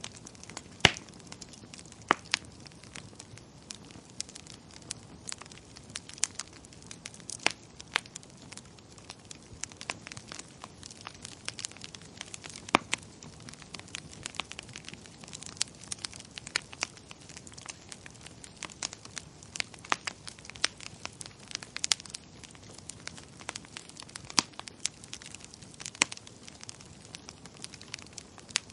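Wood fire crackling in a fireplace: a soft steady hiss with frequent sharp, irregular pops and snaps.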